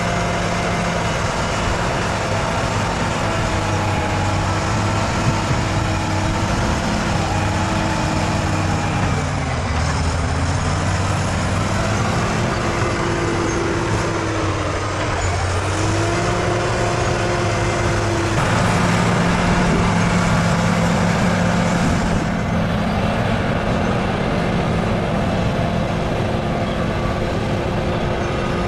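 Bulldozer's diesel engine working under load. Its pitch sags twice, then it rises and runs louder for a few seconds before settling back.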